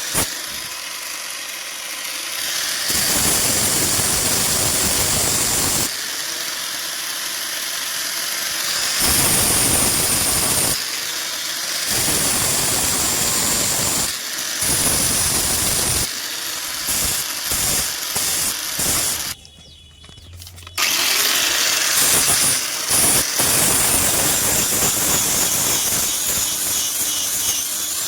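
A power tool running in loud, noisy stretches that change in character every few seconds, cutting out briefly about two thirds of the way through and then starting again.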